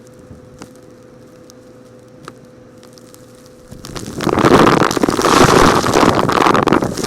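A few faint clicks, then about four seconds in a loud, dense clatter of small rocks rattling and crackling starts suddenly and continues.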